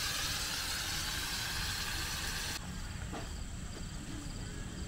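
Food sizzling in a frying pan, a steady hiss that cuts off suddenly a little past halfway. After that, crickets chirping in short repeated pulses.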